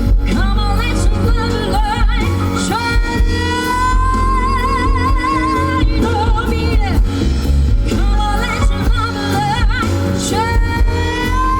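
A female singer with a live band performing a soul ballad, over a steady bass. She holds long sung notes with a wide vibrato, one in the middle and another beginning near the end.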